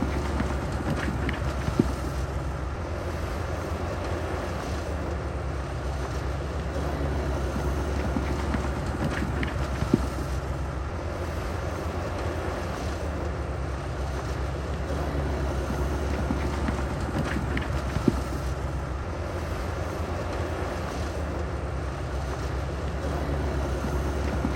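Heavy diesel engine of earthmoving equipment running steadily, with a sharp clank about every eight seconds.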